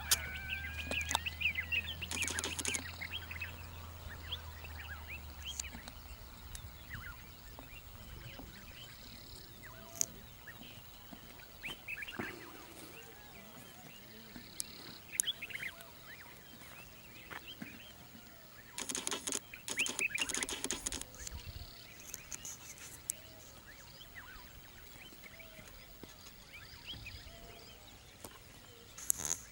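Wild birds chirping and calling, with many short scattered calls. A low steady hum stops about six seconds in, and short bursts of crackling noise come early, around the middle and near the end.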